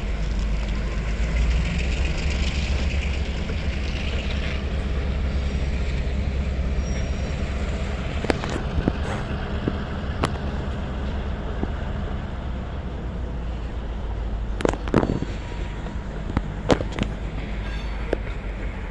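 Union Pacific diesel locomotives running a freight train, with a steady low engine rumble. Sharp metallic clanks and bangs come in two clusters, about eight seconds in and again near the end.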